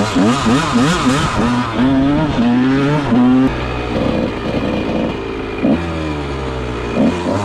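Honda CR125 two-stroke single-cylinder dirt bike engine revving hard in quick rising runs, as if through the gears. About three and a half seconds in it drops to a steadier, lower note, then revs up again near the end.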